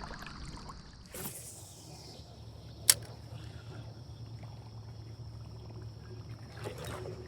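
Spinning rod cast from a kayak: a swish of the rod about a second in, then one sharp click just before three seconds, like the reel's bail snapping shut, with a second softer swish near the end.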